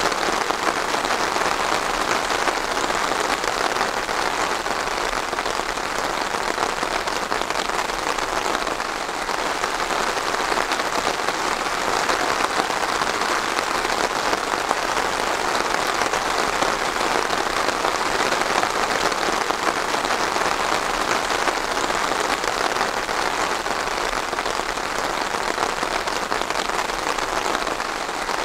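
Steady rain falling and pattering on a surface, an even dense patter without let-up.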